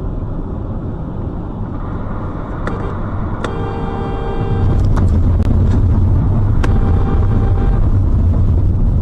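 Engine and road noise of a vehicle on the move, getting louder about four and a half seconds in, with two held car-horn blasts of about a second each.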